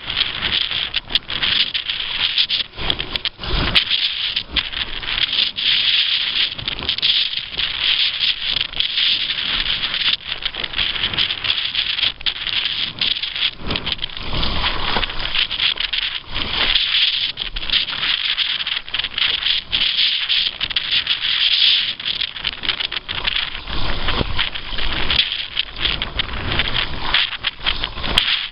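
Water rushing and splashing against a kayak or small sailing boat under way, as a steady hiss with many irregular slaps, with gusts of wind buffeting the microphone now and then.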